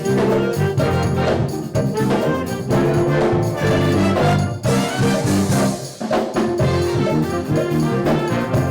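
School band music led by brass, trombones and trumpets playing held chords in phrases with short breaks between them.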